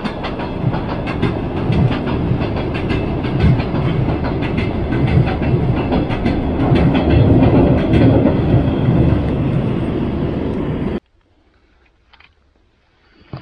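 Rain falling close to the microphone: a dense, irregular patter of drops over a low rumble. It cuts off suddenly about eleven seconds in.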